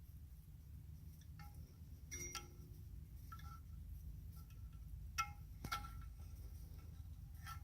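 Faint metallic clinks with a short ringing tone, about half a dozen scattered through, all ringing at the same few pitches, over a low steady hum.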